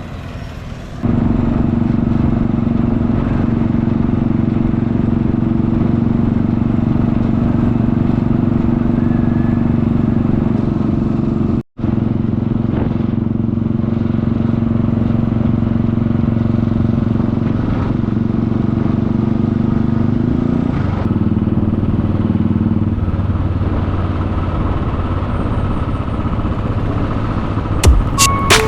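Motorcycle engine running steadily under way, heard from on the bike, with road and wind noise; it cuts in about a second in and drops out for an instant near the middle.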